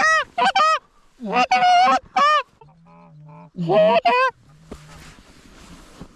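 Canada goose honks and clucks in three loud, rapid runs of arching notes, with a quieter low drawn-out note between and after them: goose calling to an incoming flock.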